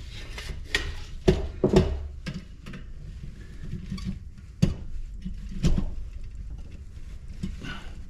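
Irregular clicks and knocks of hand tools against an aluminum light-fixture housing as it is worked apart. A low steady hum sits underneath.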